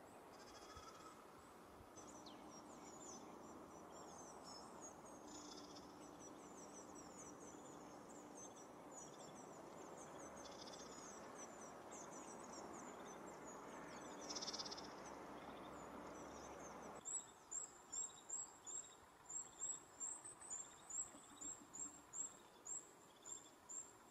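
Faint outdoor ambience with small birds twittering in quick high chirps. About two-thirds of the way in the background hiss drops suddenly, and a single high chirp repeats steadily about twice a second.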